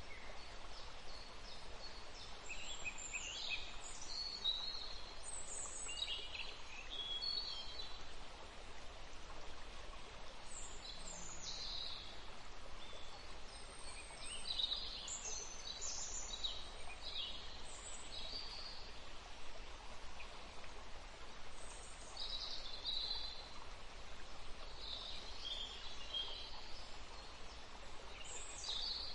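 Small birds chirping in short, high calls scattered throughout, over a steady faint hiss.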